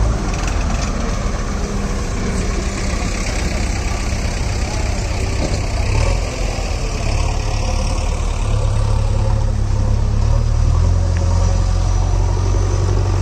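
Heavy diesel engine running steadily with a deep, even beat; its pitch shifts a little about two-thirds of the way through.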